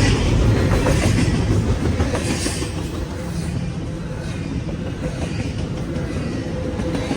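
CSX intermodal freight train rolling past, a steady rumble of the cars with wheels clicking over the rail joints.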